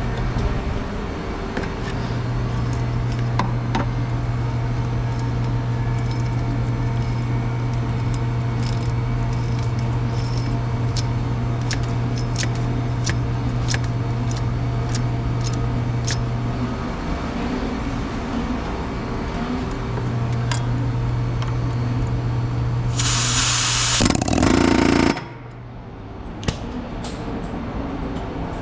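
Repair work with hand tools: scattered light metallic clicks over a steady low hum that stops and restarts a couple of times, and a loud hiss lasting about two seconds near the end.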